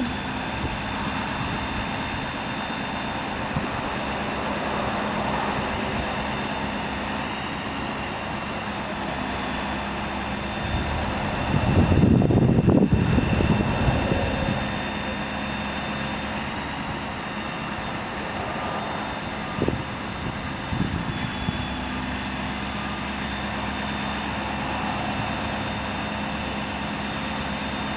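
Ford Powerstroke diesel engine running steadily to power the hydraulics of an Altec aerial boom while it is operated, a continuous drone with a steady whine. It swells louder for about three seconds roughly twelve seconds in, and a few short knocks come near twenty seconds.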